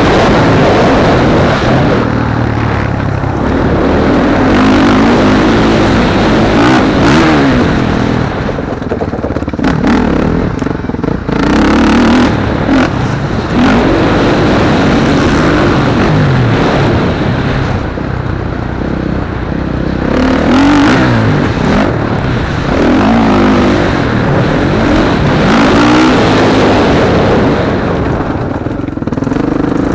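Motocross motorcycle engines racing, revving up and easing off again and again, the engine pitch climbing and dropping with each acceleration.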